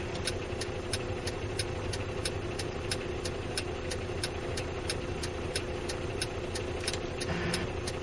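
MAN truck's diesel engine running steadily, heard inside the cab, with a regular light ticking about three times a second over it.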